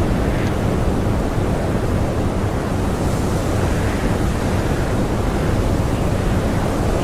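Strong blizzard wind blowing steadily as a dense, low rumbling rush of noise, without breaks or gusts.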